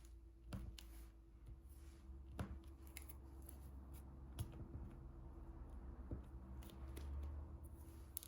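Diamond painting pen picking up resin drills and pressing them onto the adhesive canvas: soft, irregular clicks and taps over a steady low hum.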